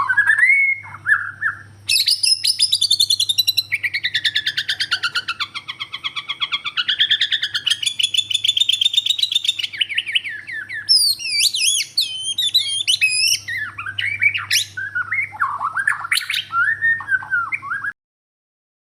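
White-rumped shama (Bornean murai batu) singing: long runs of rapid repeated notes, then varied sweeping whistled phrases. The song cuts off abruptly near the end, with a faint steady hum underneath.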